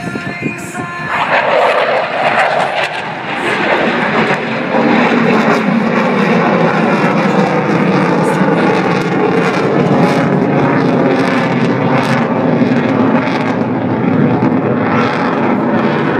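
Loud jet engine noise from a CF-18 Hornet flying a square loop. It swells about a second in and stays loud, with slowly falling tones.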